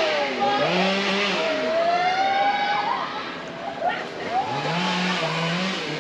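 Toboggan ride carts running along their metal coaster track, with overlapping whines and squeals that rise and fall in pitch and a low hum that swells in several times.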